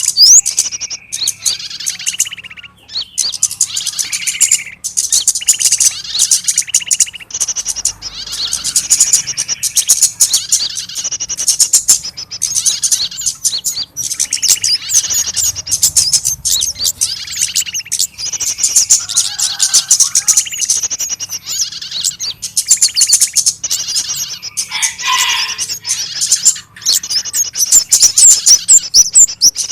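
Many small birds chirping and twittering rapidly and without pause, high-pitched, with repeated lower calls mixed in: an agitated small-bird lure recording of the kind played to draw birds in for trapping, built around a 'pinched bird' distress call.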